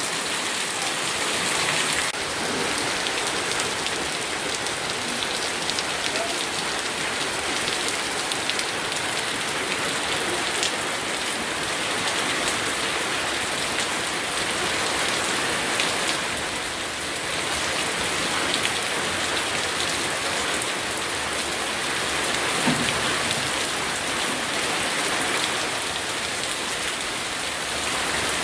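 Steady rain falling, a continuous hiss of drops with many small individual drop ticks on a surface.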